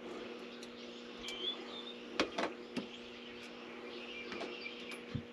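Three small sharp clicks of hardware being handled, about two to three seconds in, with a fainter one near the end, over a steady low hum.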